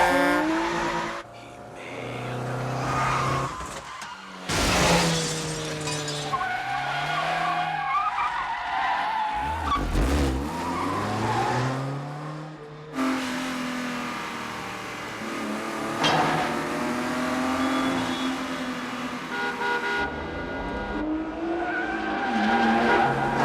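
Car-chase soundtrack: the engines of a BMW 535i and a Peugeot 406 revving hard, their pitch rising and falling through gear changes, with tyres squealing and skidding. The sound changes abruptly several times as shots cut.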